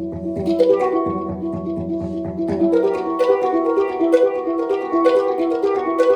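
Live instrumental music: a tuned, melodic drum played in quick struck notes that ring on, over a low sustained tone that fades out about two and a half seconds in.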